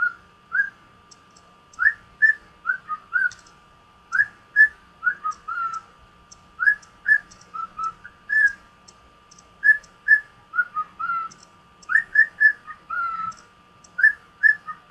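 Male cockatiel whistling: a long string of short, clear, mostly upward-sweeping notes in quick runs of two to four, with brief gaps between runs.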